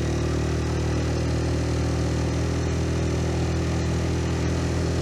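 125 cc single-cylinder motorcycle engine running at a steady, unchanging speed.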